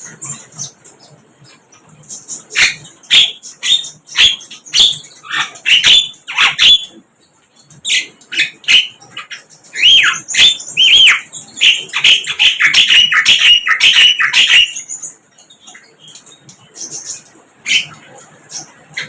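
A sikatan londo flycatcher calling and singing: quick sharp chirps and squeaky notes, building about halfway through into a dense run of arching, whistled phrases, then dropping back to a few sparse chirps near the end.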